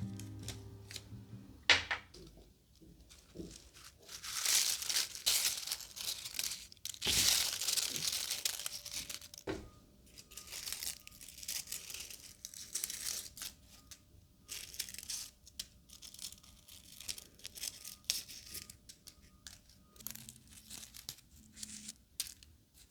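Dried flower petals and leaves being torn and crumbled by hand for potpourri, a crisp crackling rustle that is densest in the first half.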